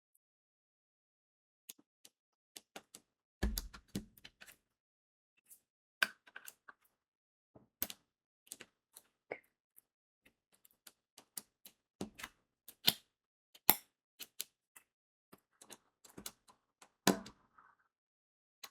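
Crystal diamond-painting beads being pressed onto the adhesive canvas with a drill pen: sharp, irregular clicks and taps, with a few heavier knocks.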